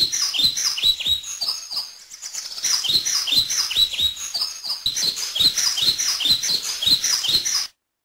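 Birds chirping, a rapid run of short downward-sliding chirps at about three a second; the chirping cuts off suddenly near the end.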